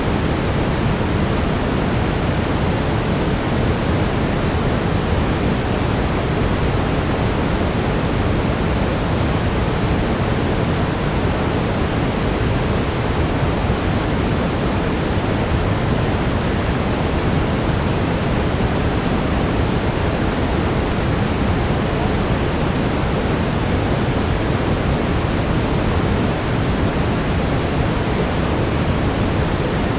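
Steady brown noise, a deep, even rushing hiss heaviest in the bass, with a faint steady 432 Hz tone blended underneath.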